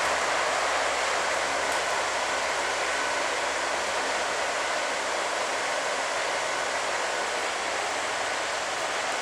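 Helicopter engine running, a steady rushing hiss with a faint high whine.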